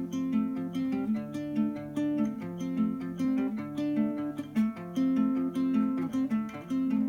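Acoustic guitar intro: a steady, repeating pattern of plucked notes with no singing yet.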